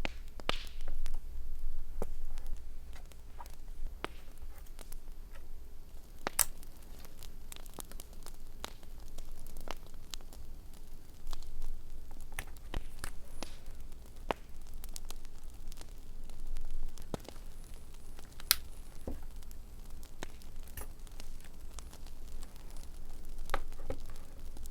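Campfire crackling, with irregular scattered pops and snaps over a low steady rumble, and some soft rustling of paper and tape being handled.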